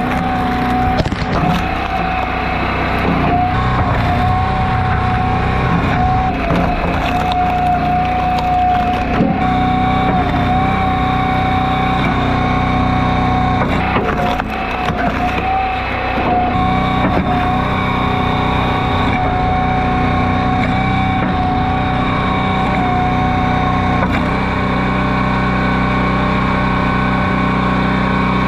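Log splitter running steadily, its engine and a wavering hydraulic whine, while firewood rounds are split with wood cracking and splintering.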